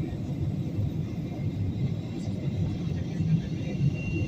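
Airliner cabin noise: a steady low rumble of engines and airflow.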